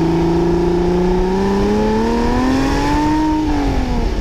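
Car engine accelerating, its pitch rising steadily for about three seconds, then dropping slightly before the sound cuts off abruptly.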